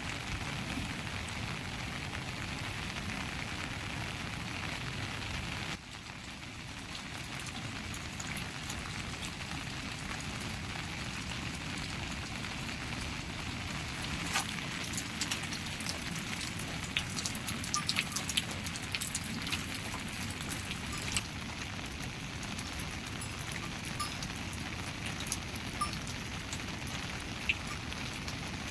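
Steady rain falling, with sharp drips and taps landing close by through the middle stretch.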